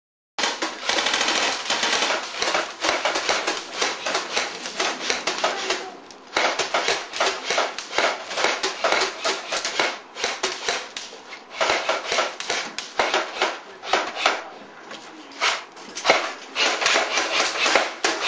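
Airsoft guns firing in fast, dense runs of sharp clicking pops, with brief lulls between bursts. The sound starts abruptly about half a second in.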